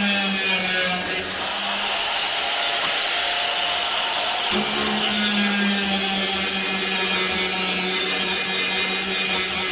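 Handheld electric power tool running against steel bodywork: a steady motor hum with a hiss of abrasion. The motor tone drops back about a second in and comes up strongly again about halfway through.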